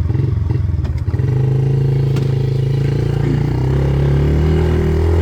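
Yamaha TT-R50 mini dirt bike's 49cc air-cooled four-stroke single-cylinder engine running steadily just after starting, its engine speed stepping up about a second in.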